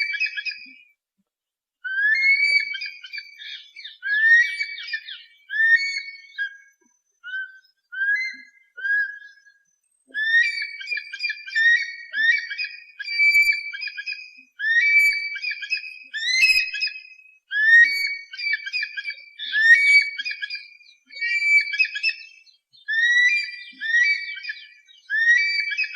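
Raptor calls used as a pest-bird deterrent: a series of short, high whistled cries, each bending in pitch, repeated about one to two times a second in runs with brief pauses.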